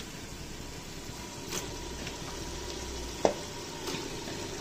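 Onion and tomato masala sizzling in oil in an aluminium pressure cooker as marinated chicken pieces are dropped in by hand. A sharp knock about three seconds in.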